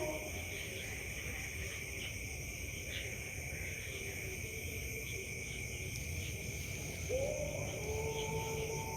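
Zebra dove (perkutut) cooing with low, hooting notes. The call is faint at first, and a stronger coo comes in about seven seconds in, over a steady high-pitched insect drone.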